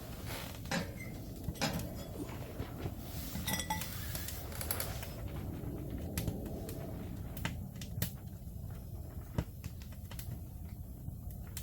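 Cookware and utensils being handled: scattered light knocks and clinks, one ringing briefly about three and a half seconds in.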